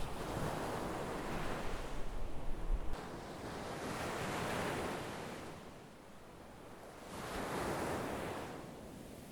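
Sea waves breaking and washing in, the surf swelling and fading three times. A low wind rumble on the microphone runs under the first wave and stops suddenly about three seconds in.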